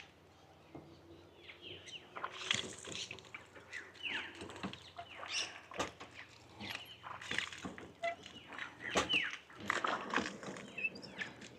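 Hand water pump worked in repeated strokes, about one a second, each stroke giving a short falling squeak and a gush of water.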